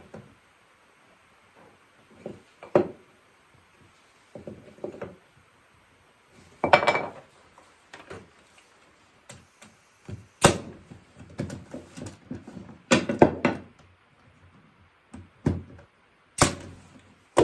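Irregular wooden knocks and clatters of oak workpieces and hand tools being handled on a bench while slats are marked out, with one longer scrape about seven seconds in and several sharp knocks in the second half.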